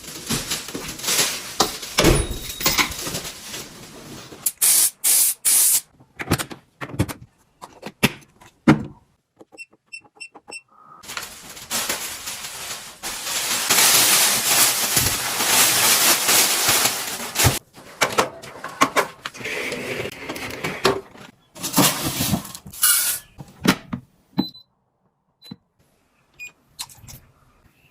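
Tea bar machine pumping water into its kettle after a voice command to fetch water: stretches of hissing water flow with clicks and knocks, and a short run of electronic beeps about ten seconds in.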